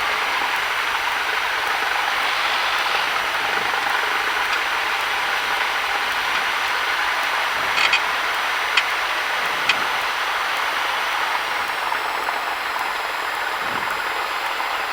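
Cessna 172 cabin noise while taxiing: the piston engine running at low power as a steady drone, with a few short clicks about eight to ten seconds in.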